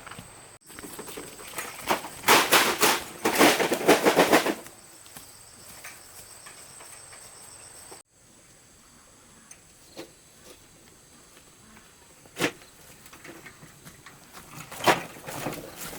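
Stones clattering and knocking together: a dense run of sharp knocks for about two seconds, then a couple of single knocks later on.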